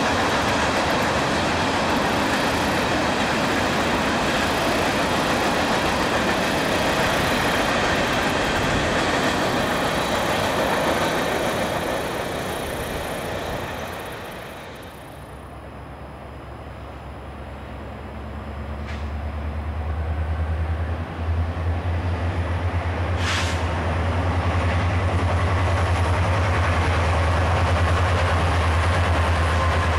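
Freight cars rolling past at track speed, a steady rolling rush of wheels on rail that fades away after about twelve seconds. Then a diesel freight locomotive approaches with a deep engine rumble that swells over a few seconds and holds loud as it and its tank cars pass.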